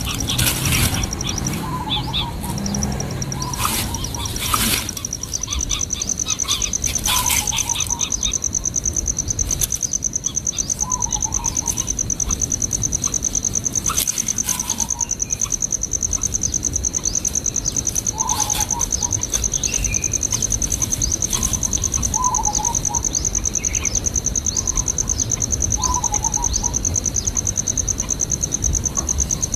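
A steady, high-pitched pulsing insect trill, with a short bird call repeating about every two seconds. A few sharp knocks and rustles come in the first several seconds.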